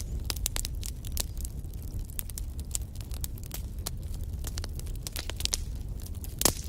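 Wood fire in a fireplace crackling and popping irregularly over a steady low rumble, with one louder pop near the end.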